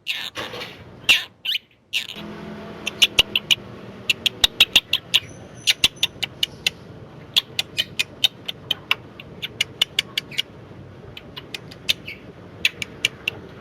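Quaker parrot (monk parakeet) calling: a couple of louder calls, then a long run of short, sharp chirps, a few a second.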